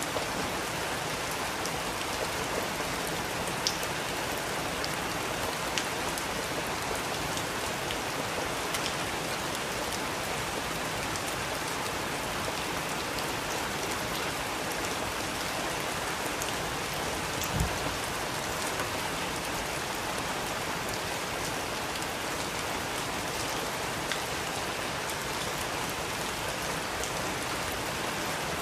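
Steady rain falling, with scattered louder drops ticking through the even patter. One brief dull knock sounds a little past halfway.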